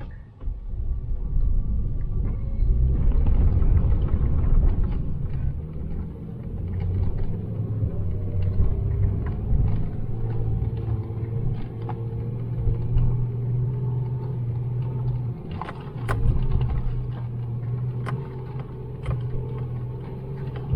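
Off-road truck engine running steadily with a low rumble while the vehicle drives up a snowy trail, with scattered knocks and clicks.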